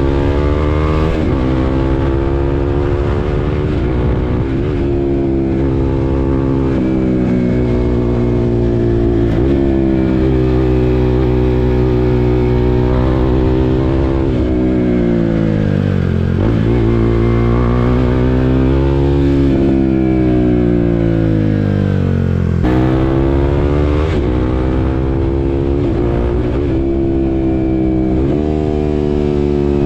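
KTM RC 390 single-cylinder engine under hard throttle, its pitch climbing and dropping back at each upshift through the gears. Around the middle the revs fall away as it slows, then it picks up again and runs up through several more quick shifts.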